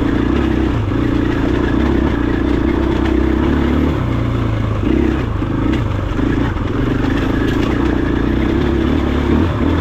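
KTM 500 EXC-F single-cylinder four-stroke dirt bike engine running while being ridden, with the throttle opened and eased a few times midway.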